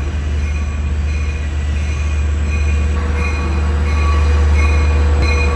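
LIRR DM30AC locomotive hauling its train into the station, a loud steady low rumble with faint high-pitched wheel squeal coming and going.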